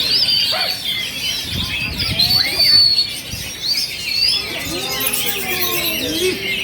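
Several black-breasted oriental magpie-robins (kacer) singing at once: a dense, overlapping mix of quick chirps and whistles, with some lower rising-and-falling calls mixed in.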